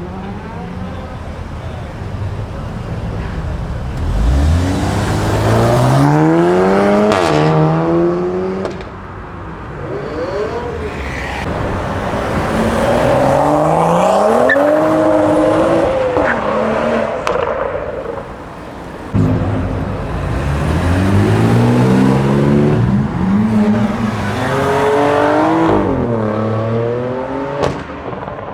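Cars accelerating hard, engine pitch climbing and then dropping back at gear changes. There are three separate pulls: about four seconds in, around ten seconds in, and from about nineteen seconds in.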